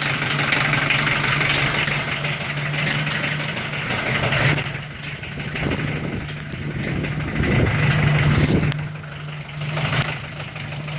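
2008 McCormick CT28 compact tractor's diesel engine idling just after a cold start in sub-freezing weather, running unhappily while still cold. Its level dips briefly twice.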